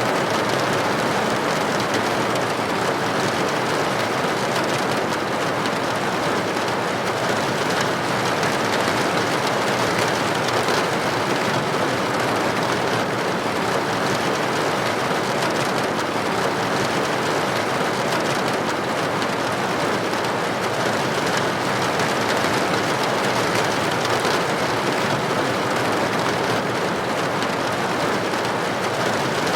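Rain falling against a building window, a steady, even hiss with no breaks.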